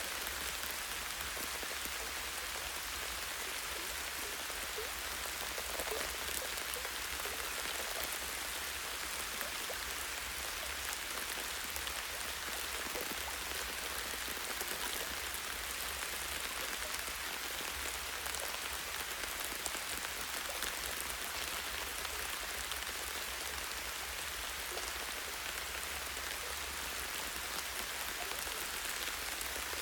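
Light rain falling steadily in a forest, drops striking a tree branch and leaves with a constant even hiss and scattered soft ticks. A low steady rumble runs underneath.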